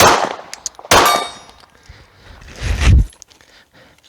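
Two sharp pistol shots about a second apart, each answered by the metallic clang of a steel target, with a high ring after the second. Near three seconds in, a louder low rush swells and cuts off.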